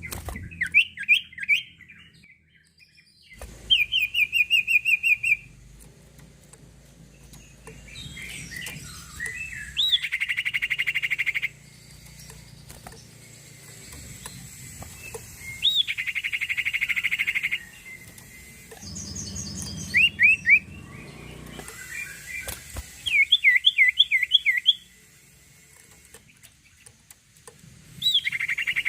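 Sirtu songbird singing in separate phrases. Some are rapid trills a second or two long, others short runs of sharp rising-and-falling notes, with short pauses between them.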